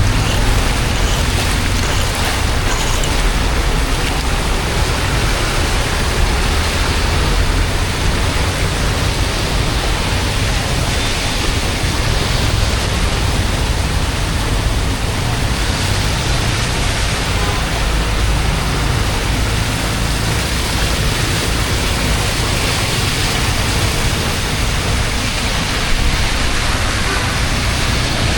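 Steady rushing water noise, with a heavy low rumble underneath.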